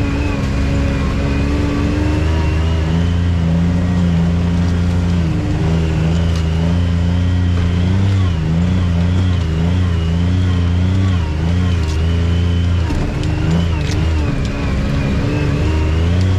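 Off-road vehicle engine running while under way on a trail, its pitch rising and falling as the throttle is eased on and off, with a thin high whine moving along with it.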